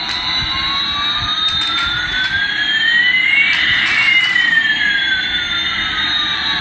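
Electronic jet-engine sound effect from a battery toy airliner: a hiss with two whining tones, one rising and one falling, that cross a little past halfway through and then part again.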